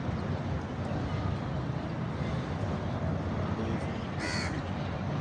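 A bird gives one short, harsh call about four seconds in, over a steady low rumble.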